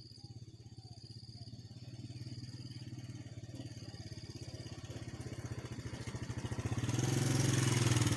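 A small engine running with a steady, fast pulsing hum, growing louder toward the end. A thin, steady insect buzz sounds in the first few seconds.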